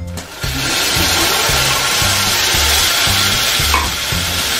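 Water poured into a hot pan of fried vermicelli, sizzling and hissing loudly as it hits the hot pan and boils up; the sizzle starts about half a second in and keeps on steadily. Background music with a steady beat plays underneath.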